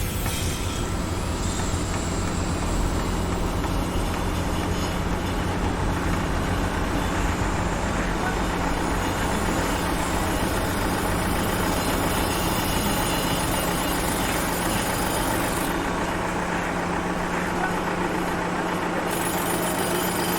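Heavy vehicle engine running steadily at a construction site, a constant low rumble with a steady tone under it.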